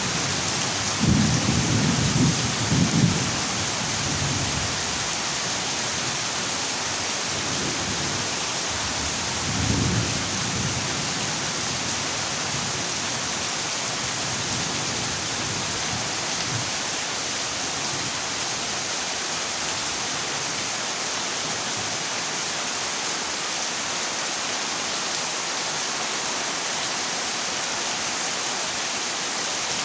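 Heavy rain falling on a corrugated zinc roof as a steady hiss, with low rumbles of thunder about a second in and again around ten seconds in.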